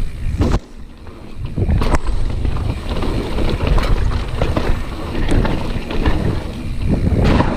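Mountain bike rolling down a wet, leaf-covered trail: wind buffeting the microphone over the rumble of the tyres, with scattered knocks and rattles from the bike. The noise dips briefly about half a second in, then picks up again.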